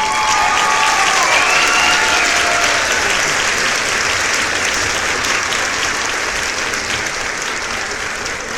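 A crowd applauding, with a few cheering voices in the first couple of seconds, then steady clapping that slowly dies down.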